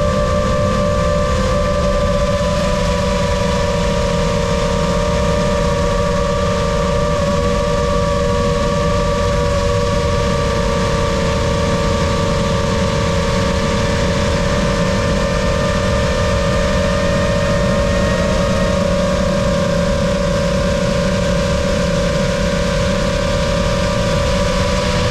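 Brushless motors and propellers of a Lumenier QAV-S 5-inch FPV quadcopter, whining steadily at a near-constant throttle. Several close tones drift slightly against one another, over a low rushing noise.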